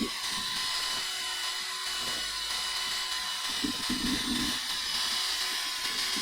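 A handheld power tool running steadily with a high whine and hiss.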